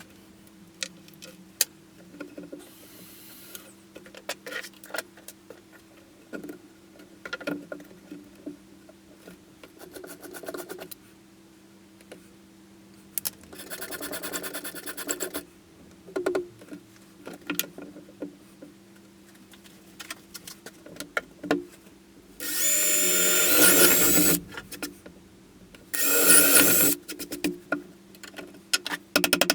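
Workshop clicks and knocks over a steady low hum, broken by short bursts of a power tool running; the two loudest bursts come near the end.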